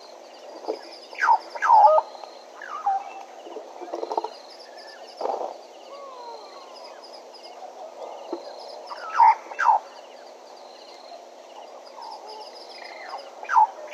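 Wild birds calling: loud, sharp calls that sweep steeply down in pitch, mostly in pairs, with a few weaker ones in between. A faint high pulsing repeats evenly in the background over a steady hiss.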